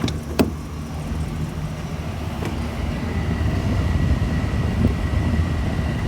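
The truck's 6.0-litre gasoline V8 idling, a steady low rumble, with a single sharp click about half a second in.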